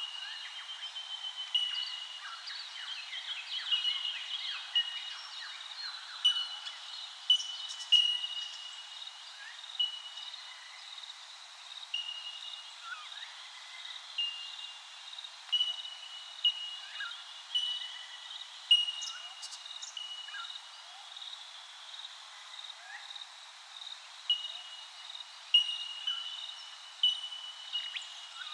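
Birds calling in bushland: one bird repeats a short, clear, bell-like note about once a second, while other birds give brief chirps that are busiest in the first few seconds. A faint steady high drone runs underneath.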